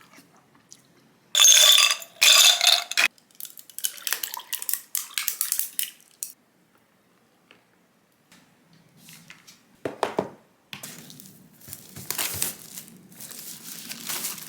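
Dishes and utensils clattering and being handled: a loud burst of clatter a second or two in, scattered clicks after it, a pause, then more clinking and rustling near the end.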